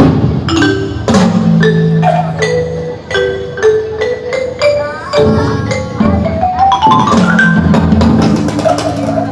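Percussion ensemble playing: sharp wooden strikes mixed with ringing pitched mallet notes, with a quick rising run of notes about seven seconds in.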